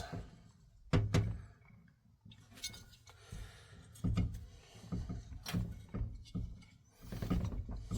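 A handful of separate knocks and clicks from the parts of a diesel heater being handled and fitted back together.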